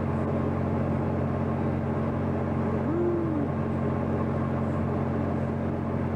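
Steady low drone of a 210-foot Coast Guard cutter's engines and machinery under way, holding several constant low tones without change.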